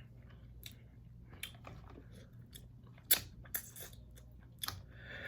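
A person chewing seafood, with wet mouth clicks and smacks at irregular times; the sharpest comes about three seconds in.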